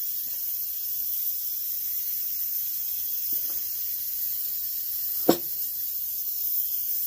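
Steady high hiss of shop background noise. A faint short knock comes about three and a half seconds in, and a single sharp knock, the loudest sound, about five seconds in, typical of handling the wooden workpiece on the bench.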